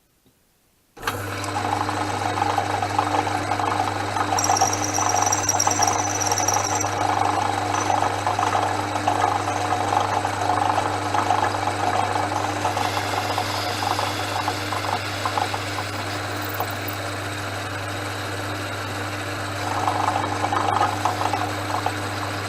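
Portass Model S lathe starting suddenly about a second in, its motor running with a steady hum while a parting tool cuts into the spinning round bar with a rough scraping noise. The cutting gets louder for several seconds early on the cut and again near the end, with a brief thin high squeal a few seconds in.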